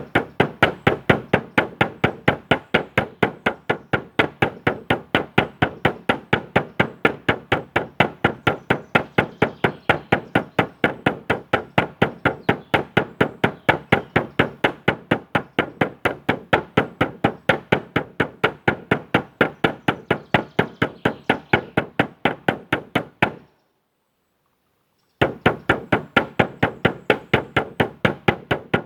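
A drum beaten in a steady, even rhythm of about three strokes a second. The beating breaks off abruptly for about two seconds near the end, then resumes at the same pace.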